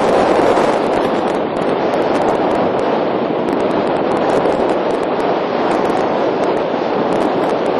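Steady wind buffeting the microphone, a loud rushing noise with a crackly edge.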